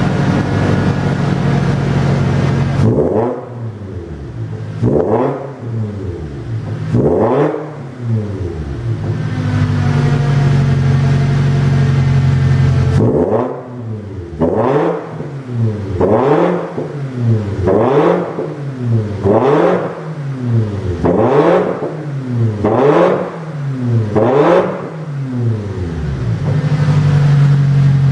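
Toyota Hilux Surf 215's 2.7-litre four-cylinder engine through a custom dual-exit stainless oval muffler, idling and then revved in quick blips: three sharp rises and falls, a steady idle, then a run of about seven more blips before it settles back to idle.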